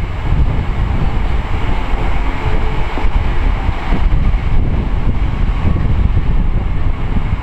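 GWR Hitachi IET intercity train passing close by, a loud steady rumble of wheels and running gear on the rails.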